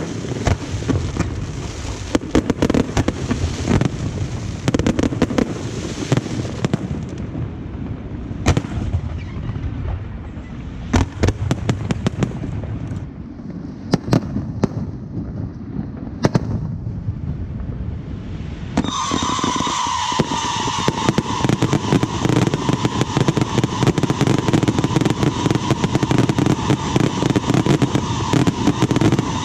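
Aerial fireworks display: shells bursting one after another in a dense barrage, with crackling. About two-thirds of the way through, a steady high tone joins the bangs and holds to the end.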